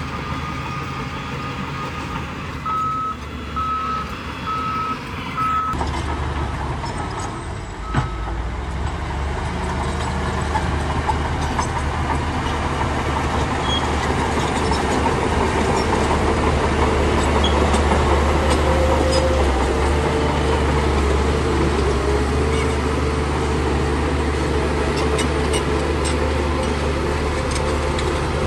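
Heavy earthmoving machine's diesel engine running steadily, with a reversing alarm beeping for a few seconds near the start and a single sharp clunk about eight seconds in. The engine grows louder from about ten seconds on.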